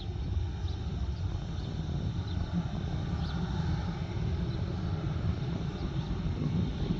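Steady low rumble of a distant jet airliner's engines, with no clear rise or fall.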